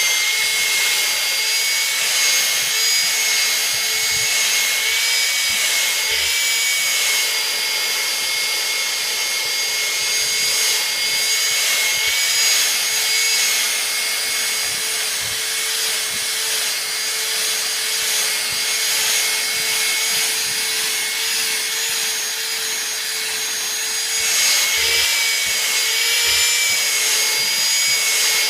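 Vacuum cleaner running steadily with a high motor whine while it is used to groom a pet's fur; the sound wavers slightly as the nozzle moves.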